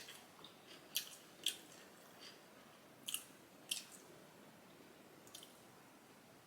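Close-miked chewing of food: a handful of short, crisp, wet mouth clicks and squishes, unevenly spaced with quiet gaps between them.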